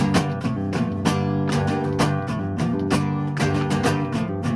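Music: strummed guitar playing without vocals, regular chord strokes, between sung lines of a song.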